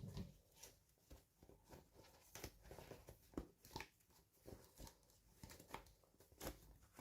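Faint, irregular clicks, taps and rustles of small plastic toy parts and packaging being handled during an unboxing.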